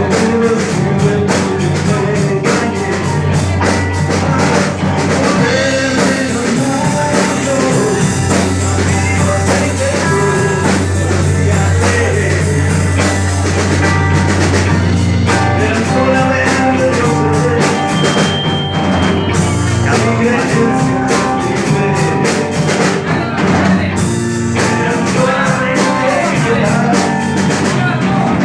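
Live rhythm-and-blues band playing, with a harmonica lead bending in pitch over a steady drum beat and bass.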